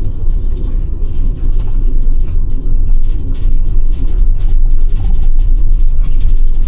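Car on the move: a loud, steady low rumble of engine and road noise.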